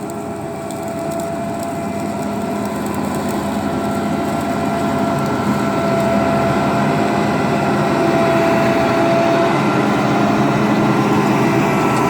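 Combine harvester's engine running steadily, with a steady whine over its noise, growing gradually louder.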